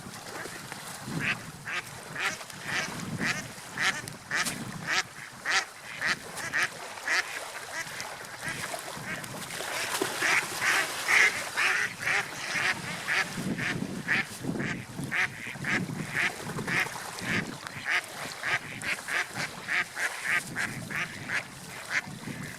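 Gulls calling in a rapid series of short cries, a few a second, over a low rush of wind and waves.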